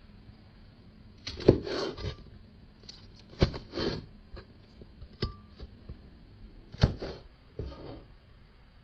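Kitchen handling sounds: about five sharp knocks, each followed by a brief rustle or scrape.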